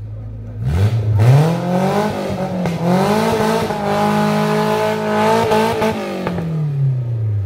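Maruti Gypsy 4x4 engine revving hard from idle about a second in and held at high revs for several seconds as the vehicle climbs a steep dirt slope, then easing back down toward idle near the end.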